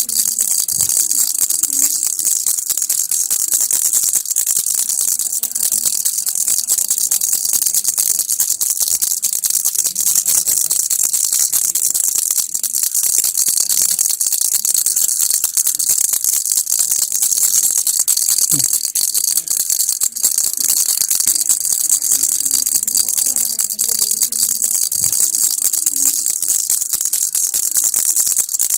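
Baby's toy rattle (kilukki) shaken without a break: a steady, dense, high-pitched rattling of many rapid tiny clicks.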